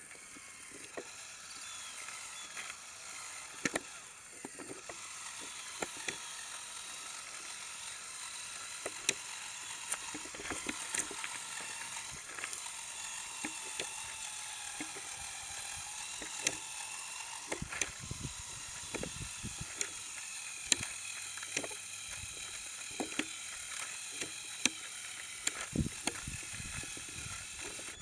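Lego Technic Power Functions XL motors and their reduction gearing on an RC crawler truck, with a steady high whine whose pitch dips and rises as the load changes. Irregular sharp clicks and knocks run through it.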